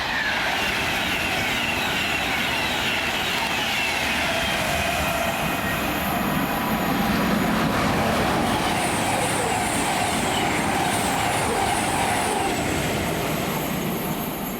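A train running past on the main line: a steady rumble and rush of wheels on rail, with whines that fall in pitch over the first few seconds and a high wavering squeal about nine seconds in.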